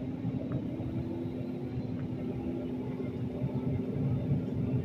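Airliner engine starting, heard from inside the cabin: a steady low rumble and hum, with a faint tone that slowly rises in pitch as the engine spools up.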